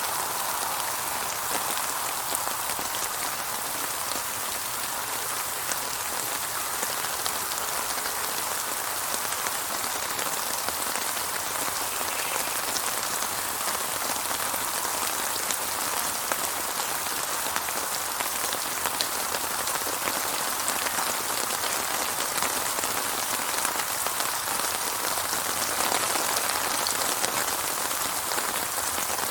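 Steady rain falling on a surface, a dense patter of many small drops without thunder; it swells slightly near the end.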